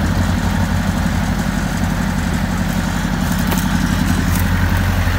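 Diesel-type engine of an off-road 4x4 vehicle running steadily at low revs, with a few light clicks or knocks about three to four seconds in.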